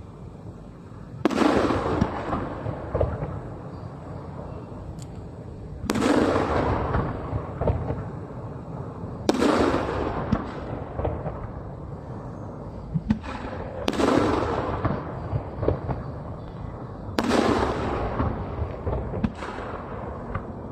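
Aerial firework shells bursting: five loud booms about three to five seconds apart, each trailing off over a second or two, with scattered smaller pops in between.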